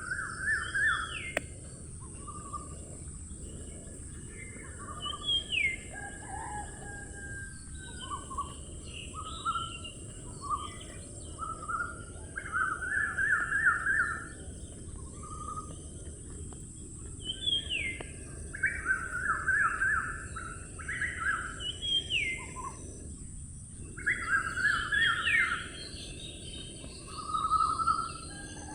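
Birds calling again and again: short rapid trills and quick whistles that rise and then drop. They come in clusters over a steady high-pitched hiss and a low rumble.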